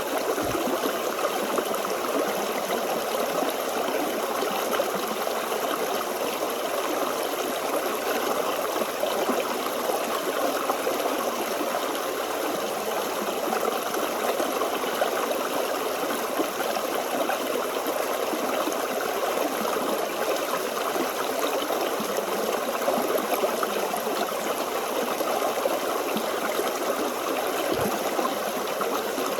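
A small stream flowing steadily, its water trickling in an unbroken, even rush.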